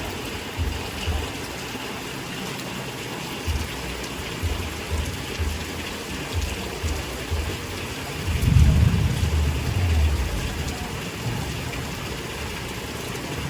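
Steady rain falling, with short low thumps every second or so and a louder low rumble about eight seconds in that lasts a couple of seconds.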